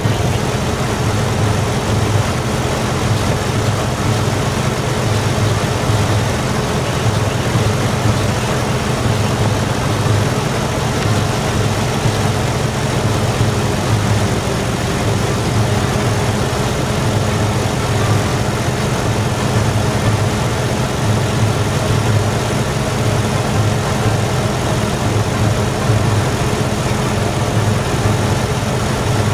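Saab 9-3 convertible's engine idling steadily, with a fast, even low pulse.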